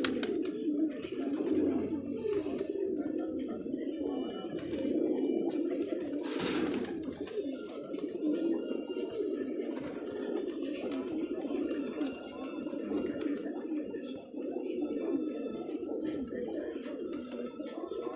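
A flock of domestic pigeons cooing continuously, many overlapping low coos forming a steady murmur, with fainter higher chirps. There is a brief rush of noise about six seconds in.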